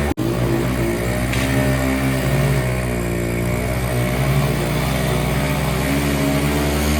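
Motorcycle engines, a TVS Apache and a Hero Splendor, both single-cylinder, running hard under load as they pull against each other. The pitch wavers slightly but stays steady, with a momentary cut just after the start.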